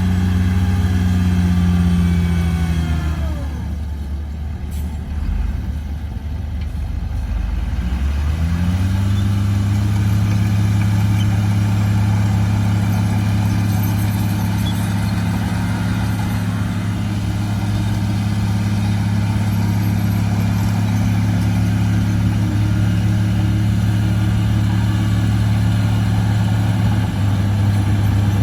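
Heavy construction machine's diesel engine running. Its revs drop about three seconds in and it runs quieter for a few seconds, then it revs back up and holds a steady, even hum from about nine seconds on.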